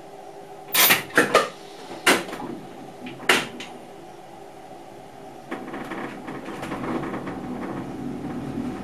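A few sharp knocks and clunks in the cab of an NS Mat '64 electric train, the loudest in quick succession in the first seconds and one more a little later. About five and a half seconds in, a rumble of wheels on the rails sets in and builds up as the train rolls.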